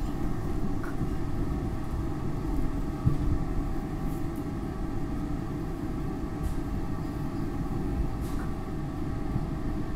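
SEPTA Market-Frankford Line train running at speed, heard from inside the car: a steady rumble of wheels on rail with a constant thin tone over it. One sharper knock comes about three seconds in.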